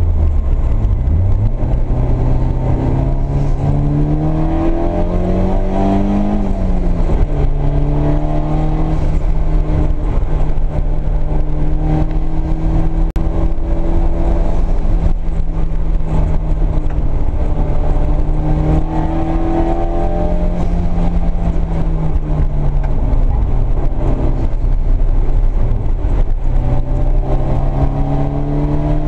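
Nissan 240SX S13's turbocharged SR20DET four-cylinder engine driven hard on track, heard from inside the cabin. The revs climb, fall sharply about seven seconds in, hold steady for a long stretch, sag a little past twenty seconds and climb again near the end.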